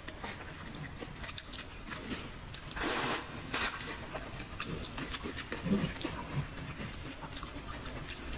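Close-miked chewing of soft braised noodles and meat: wet mouth smacks and small clicks, with a louder brief wet noise about three seconds in.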